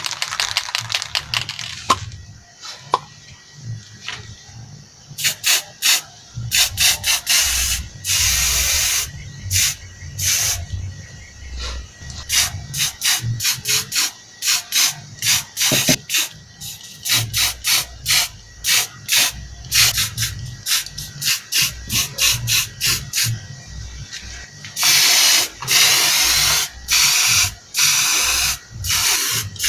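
Aerosol spray paint can spraying onto a sewing machine body in many short bursts, with a few longer sprays, about eight seconds in and again near the end.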